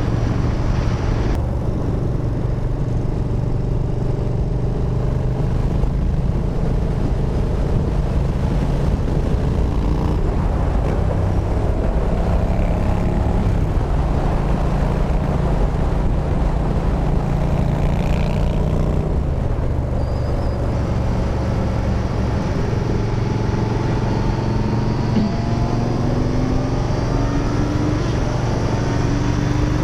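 Yamaha Bolt's air-cooled V-twin running through Bassani Radial Sweepers exhaust at riding speed, the engine note dipping briefly about two-thirds of the way in, then rising steadily near the end as the bike accelerates, with wind rush over the microphone.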